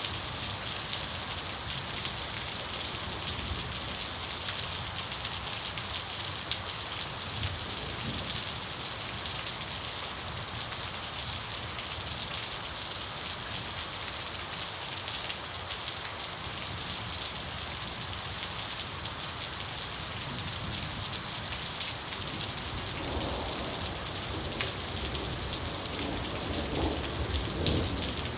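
Steady rain falling, with a roll of thunder rumbling in over the last five seconds or so and building near the end.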